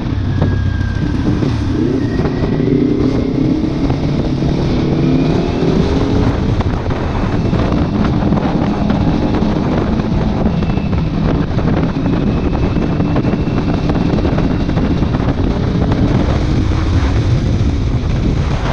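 Kawasaki Ninja 400 parallel-twin engine through an aftermarket exhaust, riding along with its pitch rising and falling several times as the throttle opens and closes, over steady wind noise on the microphone.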